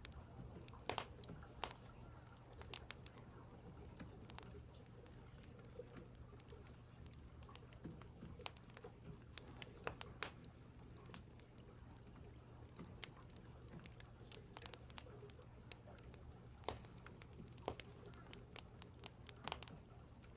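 Wood fire crackling: sparse, irregular sharp pops and snaps, a few louder ones standing out, over a steady low hum.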